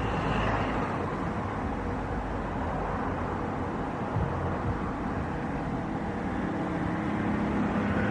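Steady engine noise, with a low hum that grows louder near the end.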